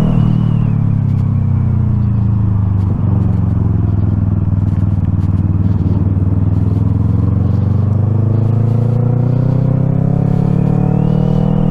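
Yamaha R3 parallel-twin motorcycle engine under way. The engine note falls over the first few seconds, breaks briefly about three seconds in, holds steady, then climbs as the bike accelerates near the end.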